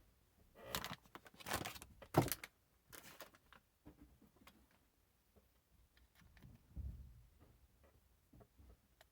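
Handling noises, probably of the coffee machine's parts: four short scraping, clanking knocks in the first three seconds, then lighter clicks and a dull thump about seven seconds in.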